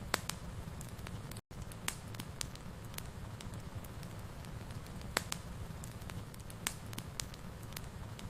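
Wood fire burning in a fireplace: a steady low rumble and hiss with irregular sharp crackles and pops. The sound cuts out completely for an instant about a second and a half in.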